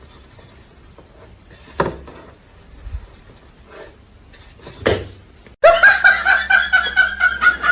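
Quiet room noise broken by two short sounds, then a person laughing loudly in quick pulses for the last two seconds.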